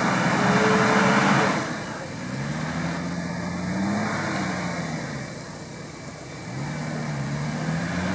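Off-road vehicle engine revving in repeated surges, each rising in pitch, holding and dropping back, about every three to four seconds. A loud rushing noise rides over the first second and a half.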